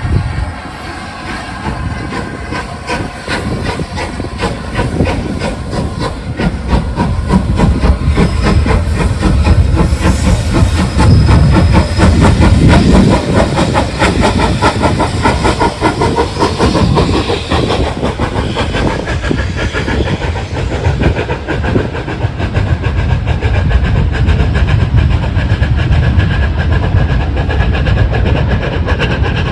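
Train running past with a fast, even rhythmic beat, growing louder about ten seconds in and staying loud.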